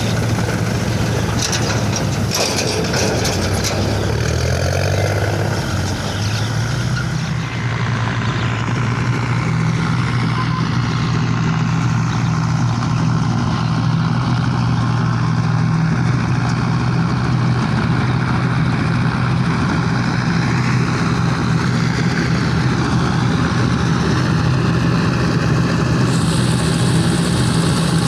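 Diesel engine of farm harvesting machinery running steadily. Its pitch rises between about three and seven seconds in as it picks up speed, then holds. A few sharp clicks come in the first seconds.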